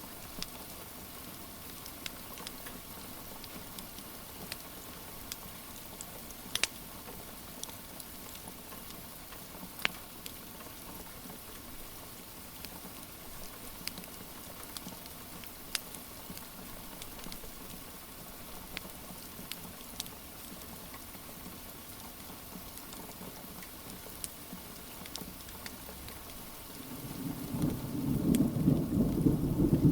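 Steady rain with scattered sharp pops from a crackling wood fire. Near the end a loud, low roll of thunder builds up.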